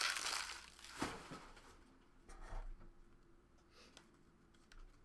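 Foil card-pack wrapper crinkling, fading out within the first second, then a sharp click and faint rustles and ticks of cards being handled.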